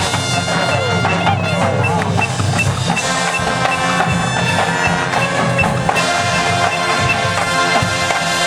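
Marching band playing: winds and brass holding full chords over drums and percussion, with a steady high tick about three times a second.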